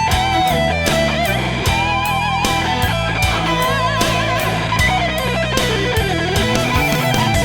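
Instrumental break of a rock ballad: a lead electric guitar plays a melody with wide vibrato over a steady drum beat and bass.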